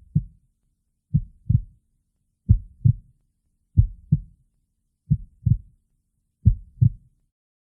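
Heartbeat sound effect: a slow lub-dub, pairs of low thumps about every 1.3 seconds, six beats in all, stopping shortly before the end.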